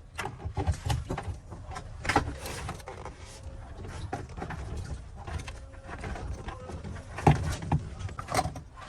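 Workshop handling noise from repair work on fuel injectors: irregular clicks and knocks, with the loudest knocks about two seconds in and again around seven and eight seconds.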